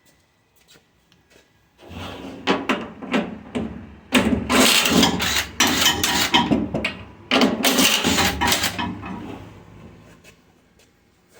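Loud rattling and clanking of stainless steel dishwasher parts being worked apart, with a low steady motor-like hum underneath. It starts about two seconds in, peaks in two long stretches, and dies away near the end.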